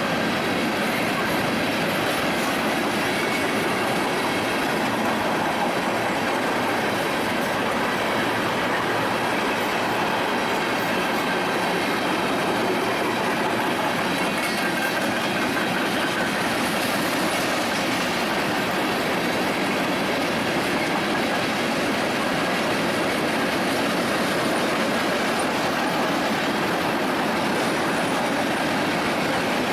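Union Pacific freight train's cars rolling past at a steady speed: a continuous rumble and rattle of steel wheels on rail, with no break or change in loudness.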